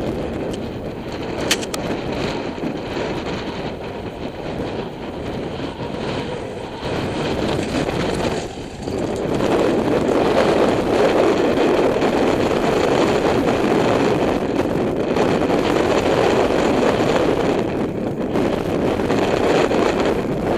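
Dirt bike being ridden, its engine mixed with wind buffeting on the microphone; the sound dips briefly about eight seconds in, then runs louder.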